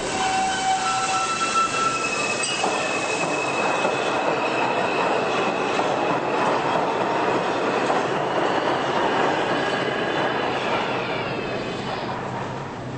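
New York City subway train running on the rails: a dense steady rumble with high, drawn-out wheel squeals over it, the sound easing off near the end.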